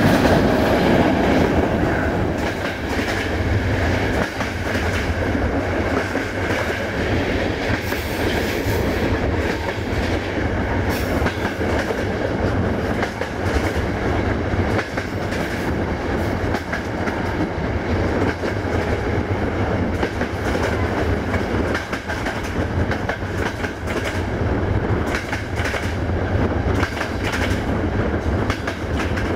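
A passenger train running along the track, heard from inside a coach: a steady rumble with the wheels clattering over rail joints.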